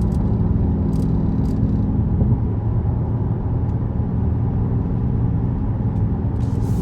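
Dodge Charger Scat Pack's 6.4-litre HEMI V8 running at a steady, even note through its mid-muffler-deleted exhaust.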